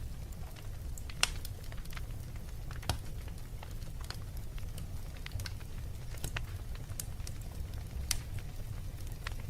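Fire crackling in a fireplace: irregular sharp pops over a low steady rumble, the loudest pop about a second in.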